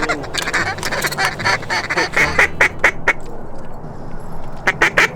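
A flock of geese calling: many short, overlapping honks and clucks. The calls thin out about three seconds in and come thick and fast again near the end.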